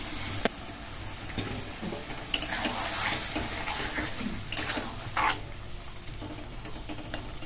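Stirring in a kadai over the heat: a spatula scrapes and clinks against the pan a few times over a light sizzle.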